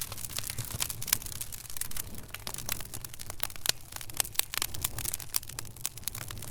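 Wood fire in a fireplace crackling: dense, irregular pops and snaps over a low, steady rumble.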